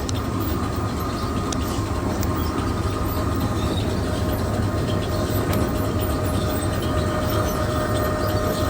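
Heavy machinery running steadily: a low rumble with a steady whine that grows a little stronger about halfway through.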